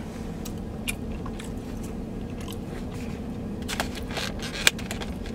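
A man chewing a mouthful of sushi roll with his mouth closed: soft wet chewing with a few scattered sharp mouth clicks, the loudest near the end, over a steady background hum.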